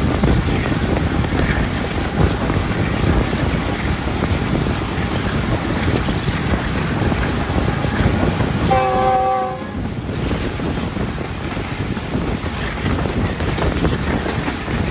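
Passenger train running at speed, heard from a coach window as a steady rush of wind and rail noise. About nine seconds in, the diesel-electric locomotive's horn gives a single blast of several steady tones, lasting about a second.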